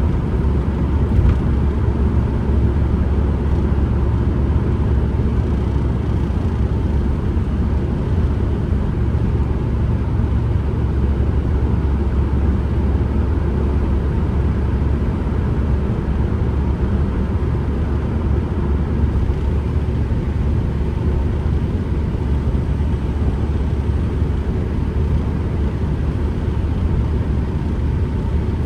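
Ford Transit Connect van driving at a steady pace, heard from inside the cabin: a steady low rumble of engine, tyre and wind noise, with no gear changes or revving.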